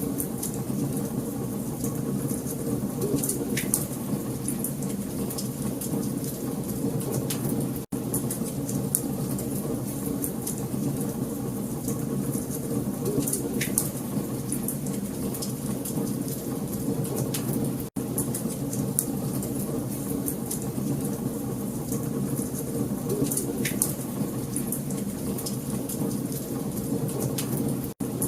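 Burning wood crackling: a steady hiss and crackle with a few sharper pops now and then. The sound cuts out for an instant three times, about every ten seconds.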